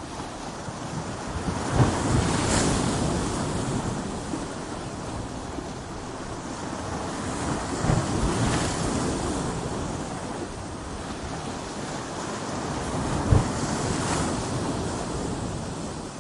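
Ocean waves breaking against coastal rocks: a steady roar of surf that swells three times, each surge opening with a sharp thump as the wave hits the rock, about 2, 8 and 13 seconds in. Wind rumbles on the microphone throughout.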